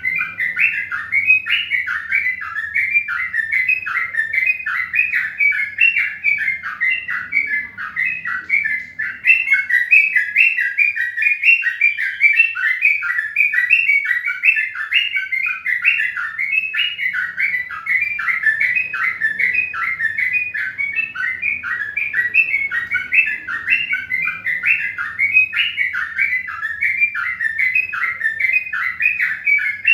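Birds chirping continuously in a dense, unbroken stream of short chirps, several a second, each dropping in pitch.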